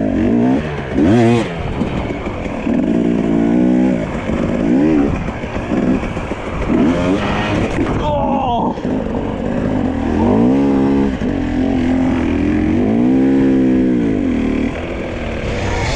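Dirt bike engine revved in repeated throttle bursts, its pitch rising and falling about six times, with the longest rev near the end.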